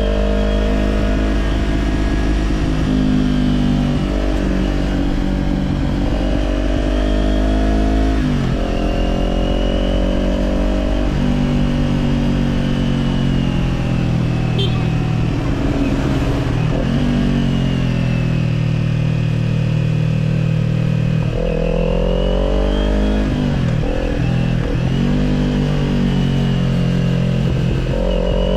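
Kawasaki Z400's parallel-twin engine through an Orion Katya slip-on exhaust, under way on the road. The engine's pitch climbs steadily and drops sharply several times as the rider shifts or rolls off the throttle, with a quick run of dips and rises about three quarters of the way through.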